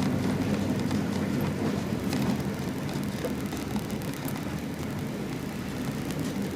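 A naturally aspirated 2.5-litre Subaru flat-four idling steadily, heard from inside the car's cabin, with the air conditioning running.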